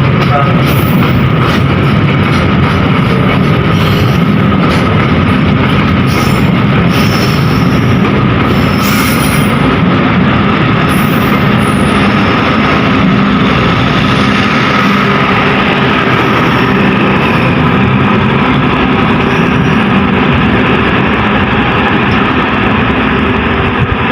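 A train rolling past close by, a steady loud rumble of wheels on rails, with sharp clicks over the rail joints in the first half.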